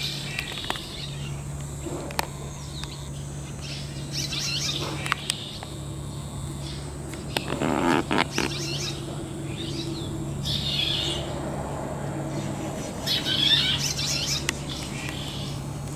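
Small birds chirping in short high bursts, several times, over a steady low hum, with a brief louder noise about halfway through.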